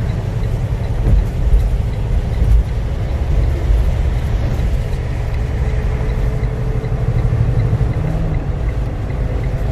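Freightliner truck's diesel engine pulling in gear, heard from inside the cab as a steady low rumble with road noise.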